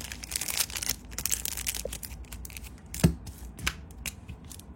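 Brass-cased Zippo Armor lighter being handled: a run of small clicks and rustling, then a sharp loud metal clack about three seconds in and another shortly after, typical of the hinged lid being flicked open and snapped shut.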